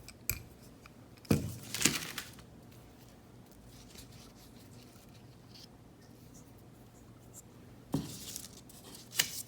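Paper rustling and crinkling in two short bursts, one about a second and a half in and another near the end, with a light click just before the end.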